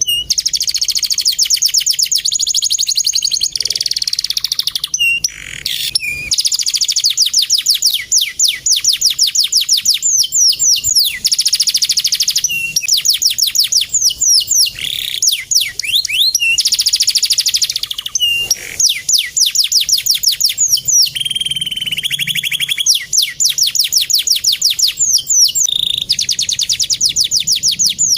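Male canary singing: long trills of very rapid repeated notes, phrase after phrase with brief breaks. About three-quarters through it holds a lower, steady note before trilling again.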